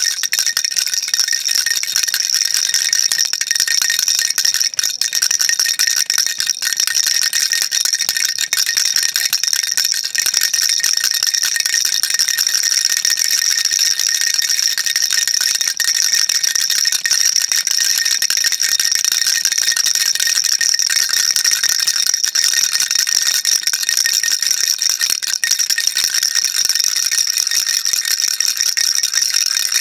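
Baby rattle shaken continuously: a dense, even clatter with no pauses.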